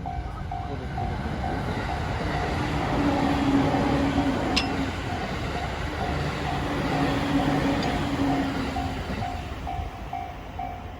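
A locomotive-hauled train rolling through a level crossing, its wheels running over the rails with a rising then easing rush of noise. The crossing's warning bell dings over it in an even, steady repeat.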